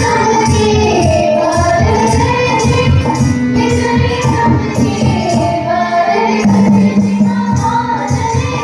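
Girls' voices singing a Kajri folk song over a steady percussion beat.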